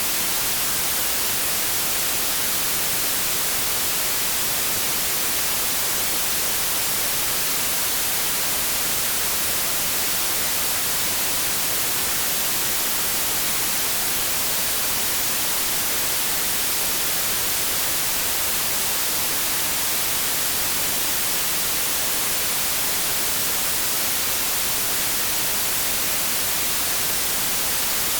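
Steady white noise: an even, bright hiss with no change in level or pitch.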